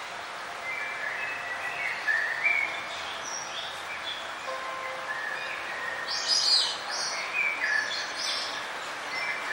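Several songbirds chirping over a steady background hiss, many short high notes overlapping, with a louder cluster of high chirps about six seconds in.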